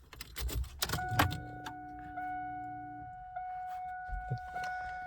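Car keys jingling and the ignition switched on in a 1998 Camaro. An electronic warning chime then sounds on and off as a steady high ding re-struck about once a second, with the fuel pump's brief hum as it primes.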